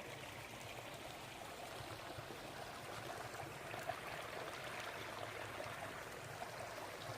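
A small brook babbling steadily over its stones.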